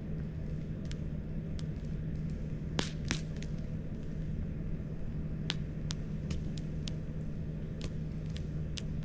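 Wood campfire crackling: scattered sharp pops and snaps, a few close together about three seconds in, over a steady low rumble.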